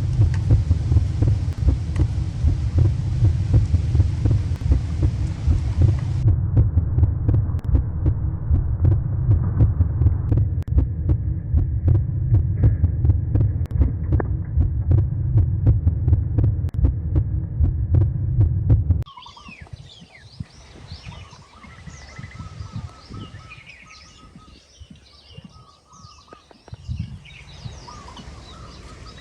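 A loud, low throbbing rumble that cuts off suddenly after about nineteen seconds. It gives way to quiet outdoor ambience with birds chirping.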